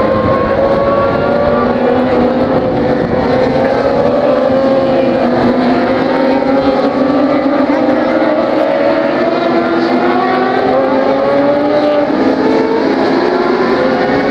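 Several racing motorcycle engines running hard together on the track, their pitches rising and falling as they accelerate and shift.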